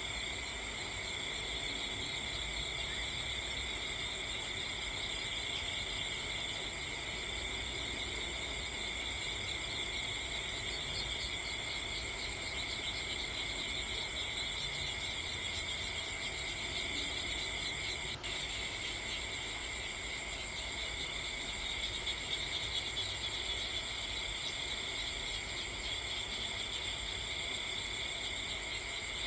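Steady insect chorus, a dense high shimmering trill in several pitches that runs without a break. A single short click sounds about two-thirds of the way through.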